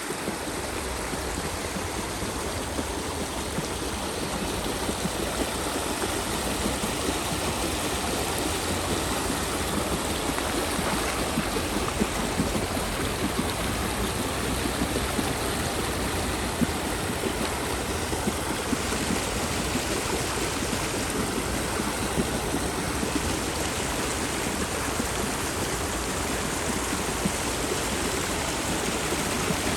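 Water running and splashing steadily off a turning water wheel, with small splashes breaking through now and then.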